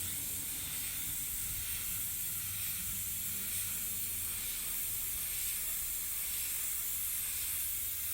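Automotive paint spray gun hissing steadily as it sprays the white base coat.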